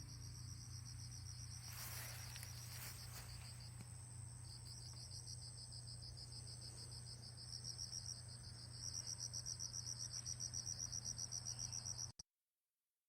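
Insects chirping in a high, pulsed trill over a low steady hum, one chirp growing louder at about six pulses a second in the last few seconds. The sound cuts off abruptly shortly before the end.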